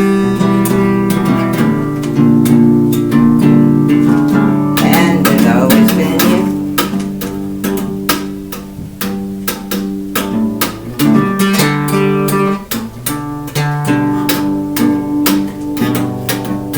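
Acoustic guitar strummed in a steady rhythm, chords ringing between the strokes, as an instrumental passage with no singing.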